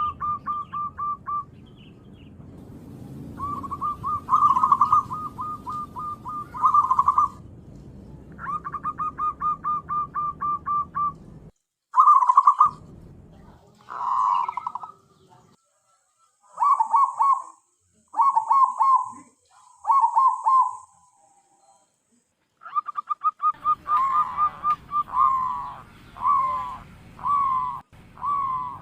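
Zebra dove (perkutut) cooing: repeated phrases of rapid staccato coos, each lasting a second or two, with short breaks between.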